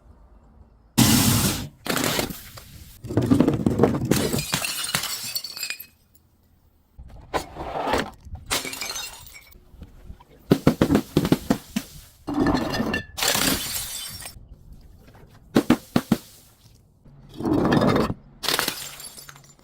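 Glass bottles and other brittle objects smashing and being crushed, about a dozen separate crashes with crackling, shattering tails and short pauses between them.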